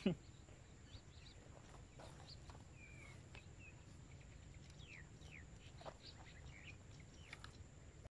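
Faint, scattered bird chirps over a low steady background of outdoor noise. A brief loud falling vocal sound comes at the very start.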